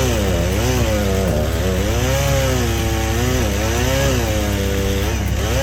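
Chainsaw engine running hard, its pitch rising and falling again and again as the throttle is worked. A steady low hum runs underneath.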